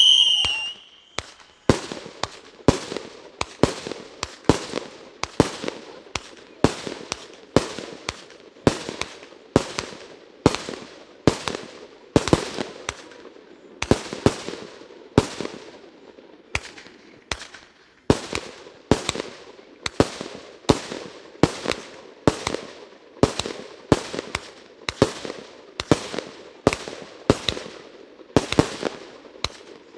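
Firework salute cake firing a steady string of sharp bangs, about three every two seconds, each with a short echoing tail.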